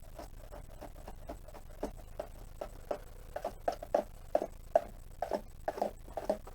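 Crumbling, dusty material on a portable fridge part being scraped by hand: irregular short scraping strokes, coming faster and louder in the second half.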